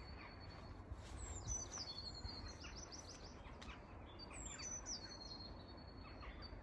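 A songbird singing faintly: a short phrase of high, falling whistled notes, a held note and a quick run of notes, repeated about every three seconds. A low, steady rumble lies underneath.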